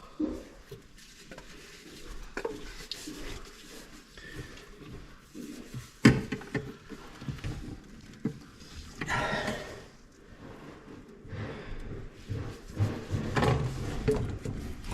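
Irregular clatter and knocks of tools and parts being handled, with one sharp knock about six seconds in and a brief scraping or rustling sound a few seconds later.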